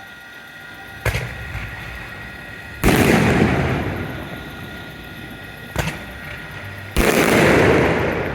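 Aerial fireworks shells going off: a sharp bang, then a louder boom that rumbles away over a second or so, and the same pair again.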